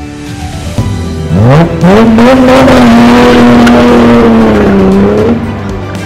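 Classic sports car's engine revved hard as it launches from a standstill: the pitch climbs quickly, is held high and steady for about three seconds, then eases off. Music plays faintly underneath.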